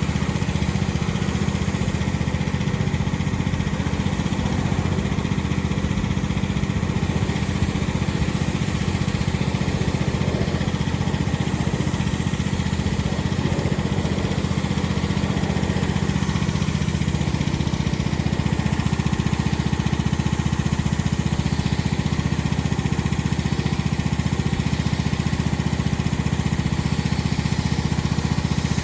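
Gas-engine pressure washer running steadily, its small engine humming at a constant speed.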